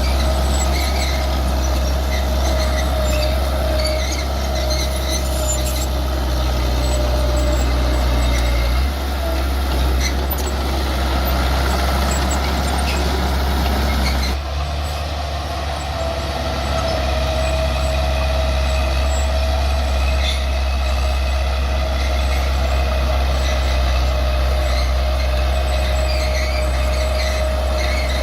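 Bulldozer's diesel engine running under load, with a steady high squeal over its rumble; the engine note shifts about a third of the way in and again about halfway.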